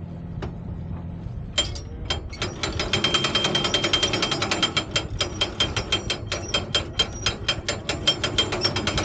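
A ratchet-and-pawl hand winch on a traditional sailing boat being cranked, clicking rapidly and unevenly, several clicks a second. A low steady hum, likely the boat's engine, stops about a second in, just before the clicking starts.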